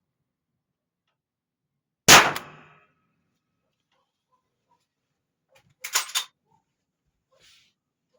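A Winchester large rifle primer fired alone in an empty .45 ACP case, with no bullet, from an FNX-45 Tactical pistol: one sharp pop about two seconds in, with a short ringing tail. About four seconds later comes a quick cluster of metallic clicks.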